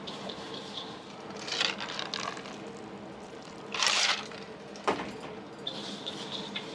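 Soba dough being worked by hand in a mixing bowl: soft rubbing and squishing, with a louder rustling hiss about four seconds in and a single sharp knock about a second later. A faint steady kitchen hum runs underneath.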